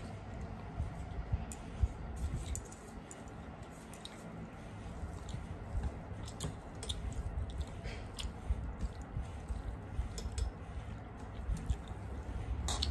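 Close-up mouth sounds of people chewing rice and fish curry eaten by hand, with soft squishing as the rice is mixed by hand on steel plates. Small sharp clicks are scattered throughout.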